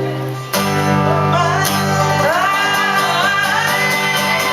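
Live acoustic guitar accompaniment holding chords, with a new chord struck about half a second in. A singer's voice carries a melody over it from about a second in.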